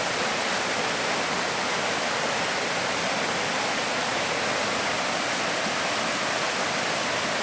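Steady rush of a tall waterfall, its water crashing down more than 30 metres into a pool below, a constant hiss strongest in the upper range.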